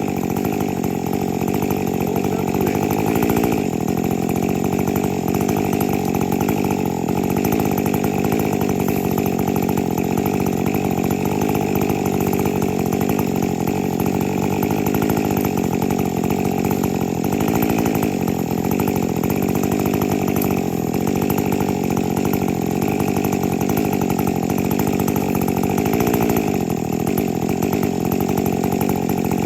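50 cc two-stroke chainsaw running at high revs and cutting through maple wood, its engine pitch sagging and recovering several times under load.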